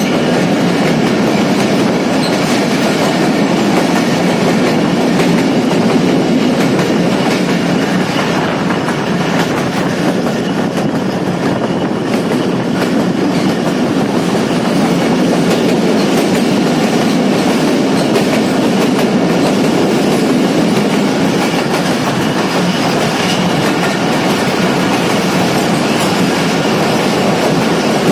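Passenger train running at steady speed, heard from inside a coach: a continuous loud rolling din of wheels on the rails. It rings back off the walls of the tunnels and rock cuttings the train is passing through.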